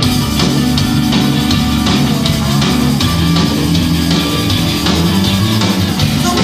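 Live rock band playing a song at full volume: guitars and a bass line over a drum kit with steady cymbal hits.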